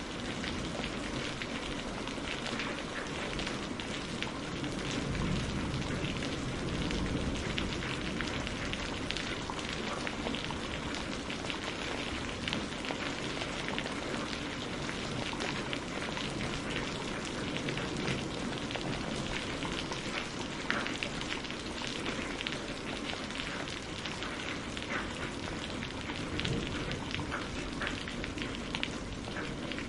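Steady rain on a greenhouse roof, heard from inside, a continuous hiss dotted with many separate drop ticks.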